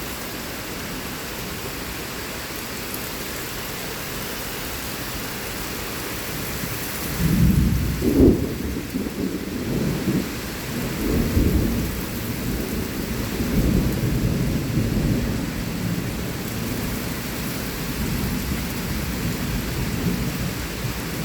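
Heavy rain falling steadily, with a long rolling peal of thunder that starts about seven seconds in, is loudest a second later, and rumbles on in several swells for about ten seconds before sinking back under the rain.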